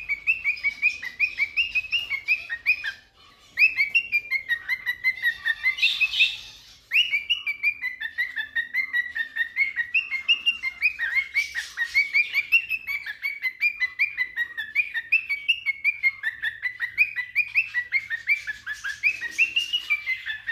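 Cockatiel singing: a fast, steady run of short chirping notes, about four or five a second, broken by two brief pauses about three and six and a half seconds in.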